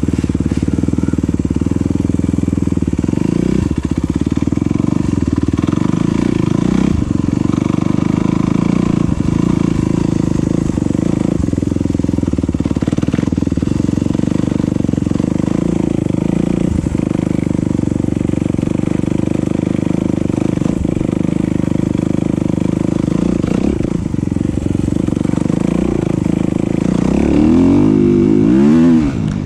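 Enduro dirt bike engine running at a fairly steady pace, with the revs rising and falling a few times near the end.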